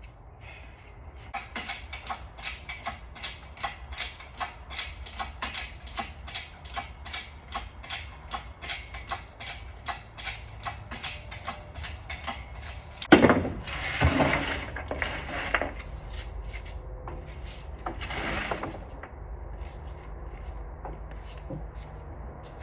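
Hand tools working on a Honda F22C engine being taken apart: a steady run of clicks, about two or three a second, then a loud metal clank about 13 seconds in, followed by clattering and scraping.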